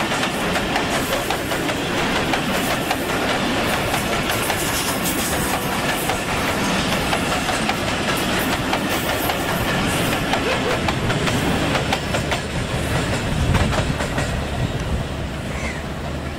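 Express passenger train passing at speed: a loud, steady rush of the train going by, with wheels clicking sharply over the rails. It eases off slightly near the end.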